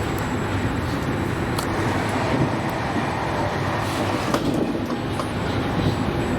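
Regional train running on the rails: a steady rumble with a few sharp clicks from the wheels on the track.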